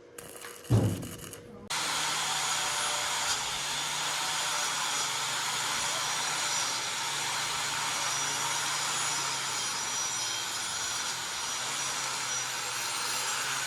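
A thump, then a small electric power tool starts abruptly and runs steadily with a hissing, rubbing noise over a low motor hum, as if sanding or grinding.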